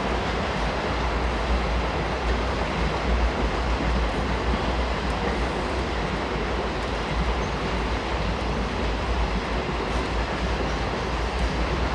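A freight train running past with a steady rumble and rail noise from its wheels on the track.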